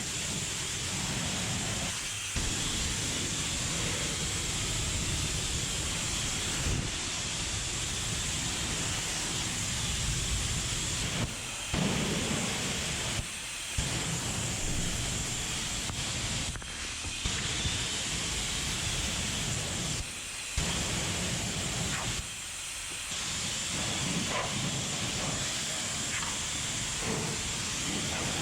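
Pressure washer spraying in a steady hiss, cut off briefly several times as the spray stops and starts again.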